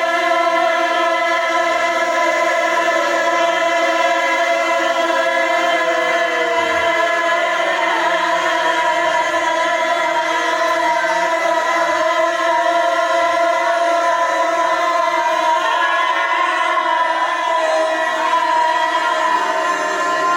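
Audience of many voices calling out together in one long, drawn-out held note, overlapping pitches like a choir.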